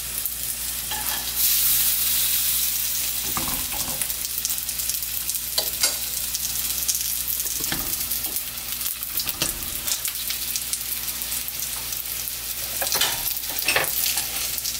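Batter-coated eggplant slices sizzling steadily in oil in a nonstick frying pan, the sizzle a little louder for a second or so about two seconds in. Scattered clicks and taps of metal tongs against the pan as the slices are handled and turned.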